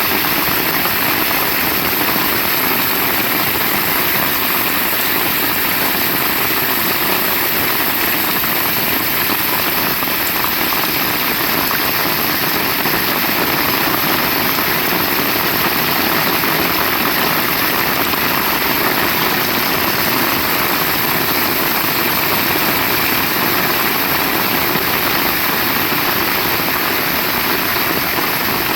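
Heavy rain falling in a steady downpour, an even hiss with no breaks or single impacts.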